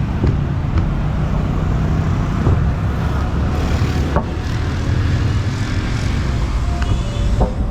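Steady low rumble of road traffic and vehicle noise, with a few short tones near the end.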